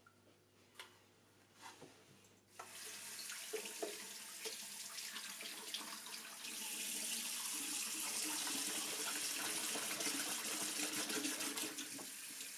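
Tap water running into a sink. It starts about two and a half seconds in after a few faint clicks, and the flow grows stronger about halfway through.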